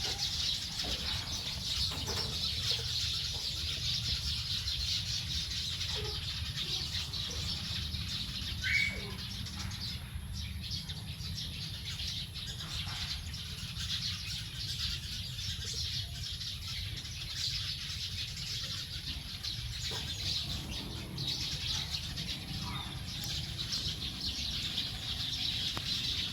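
Dense, continuous chatter of a large flock of small birds chirping together as they settle to roost. There are scattered lower calls, with one clear rising call about nine seconds in, over a steady low rumble.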